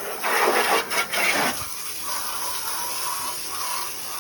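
Water spraying onto a car's body during a wash, louder over the first second and a half, then a softer steady spray.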